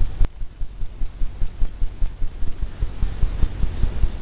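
A 2-inch brush working oil paint on a canvas on an easel, giving a rapid, irregular run of dull low thuds, with one sharp click a quarter second in.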